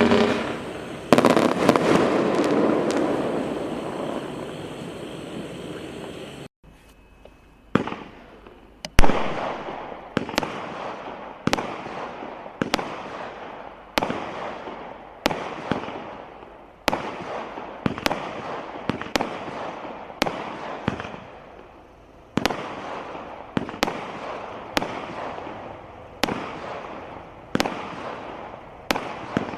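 Firework cakes firing: a dense, continuous crackling wash that cuts off suddenly about six seconds in. It is followed by a steady run of shots, about one a second and some in quick pairs, each a sharp bang with a fading echo.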